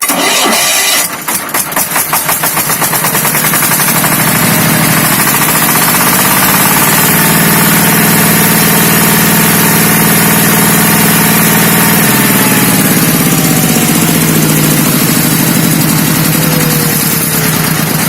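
Single-cylinder ZS1100 diesel engine of a walk-behind tractor starting and running. It is revved up over several seconds, held high, then throttled back about twelve seconds in with a falling pitch. It runs quietly and smoothly without the bearing howl, its counterbalance-shaft bearings freshly replaced.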